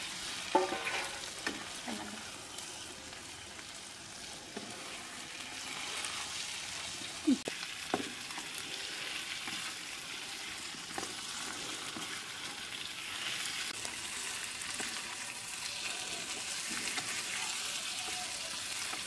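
Boiled potato pieces frying with a steady sizzle in spiced oil in a kadhai, stirred with a spatula that scrapes and knocks against the pan now and then, most sharply about seven and eight seconds in.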